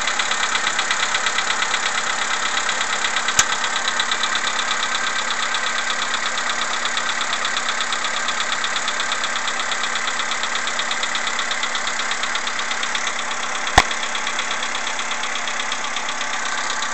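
CFNA car engine idling cold in the morning with a steady, rapid knocking, which the owner takes for piston knock. Two sharp clicks cut through it, one about three seconds in and a louder one near the end.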